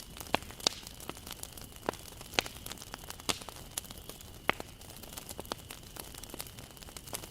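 Wood fire burning, crackling and popping at irregular intervals over a soft steady hiss, with a few louder pops.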